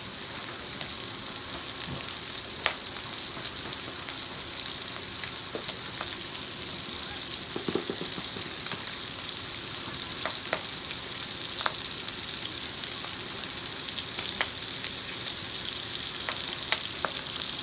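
Crumbled pork sausage frying in bacon grease in a hot skillet: a steady sizzle, broken by scattered sharp clicks and scrapes as a utensil works the meat around the pan.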